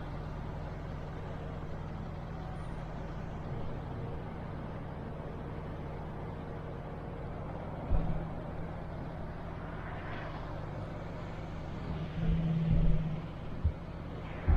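MAN TGX truck's diesel engine running steadily at low road speed, with a few short low thumps about eight seconds in and again near the end.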